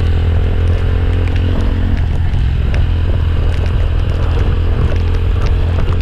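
Motorcycle engine running steadily under way, with a strong low rumble and scattered small clicks and rattles.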